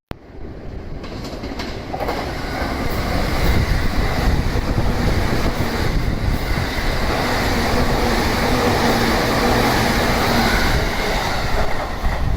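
Electric multiple-unit commuter train passing through a station at high speed without stopping: a rushing rumble of wheels on rail that builds over the first two seconds, then stays loud and steady.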